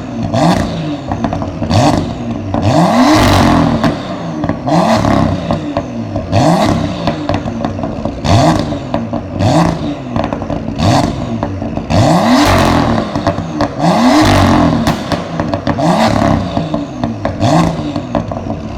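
BMW M2 (F87) 3.0-litre turbocharged straight-six with an aftermarket exhaust, revved in a series of quick throttle blips about every couple of seconds, each rising and falling in pitch. Crackling is heard as the revs drop.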